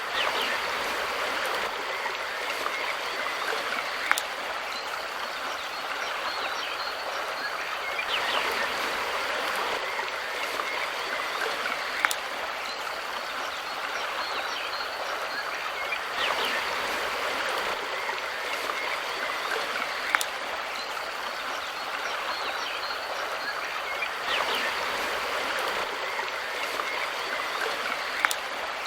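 Mountain river flowing: steady rushing and babbling water, swelling slightly every few seconds. A short sharp click recurs about every eight seconds.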